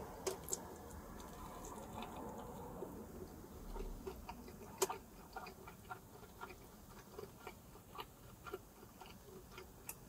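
A person chewing a mouthful of cheese and corn empanada: a run of soft, irregular wet mouth clicks, coming more often in the second half, with one sharper click near the middle.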